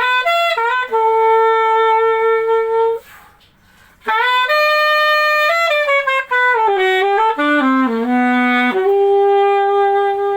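Chateau VCH-A920 MZ saxophone playing unaccompanied, with no effects: a phrase of short notes settling into a held note, a breath of about a second, then a second phrase that holds a note, runs down through a falling line of notes and jumps back up to a long held note.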